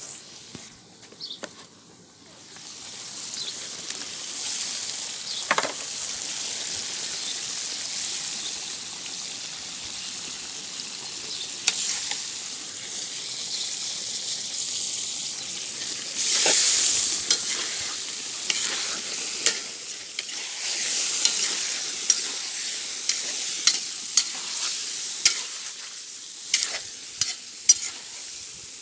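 Food frying and sizzling in hot oil in a kazan, with the clicks and scrapes of a utensil stirring it. The sizzle swells up about two seconds in and surges louder briefly a little past halfway.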